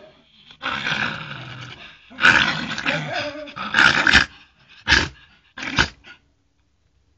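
A dog growling angrily in three long, rough stretches, then two short, sharp sneezes about a second apart.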